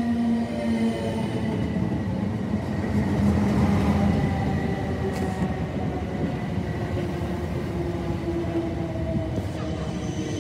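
A South Western Railway electric multiple-unit train beside the platform, giving a steady mechanical rumble and hum. A faint whine rises slowly in the second half.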